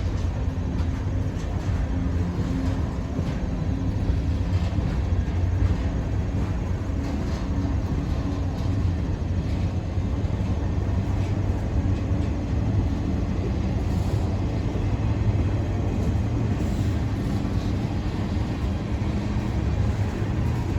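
Freight train rolling past at close range: a steady low rumble of steel wheels on rail.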